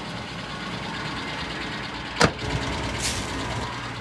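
1998 Ford Ranger's 4.0-litre V6 idling with a steady ticking knock. A truck door slams shut about two seconds in.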